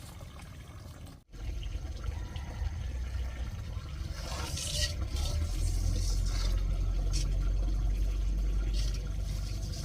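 Water pouring steadily into a container to fill it, growing louder, with a few splashes in the middle. It drops out briefly about a second in.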